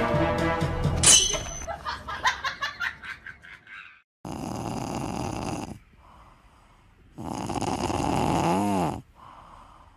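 Music ending with a sharp hit that dies away over a few seconds, followed by snoring: two long, rasping breaths about three seconds apart.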